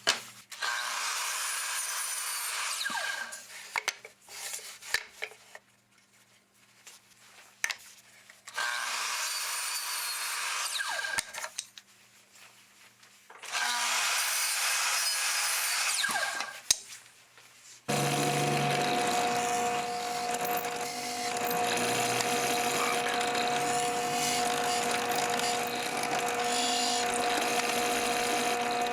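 Woodworking power tools cutting wood: three separate cuts, each a few seconds long with short quiet pauses between them. Then, about two-thirds of the way in, a machine starts and runs steadily with a constant hum.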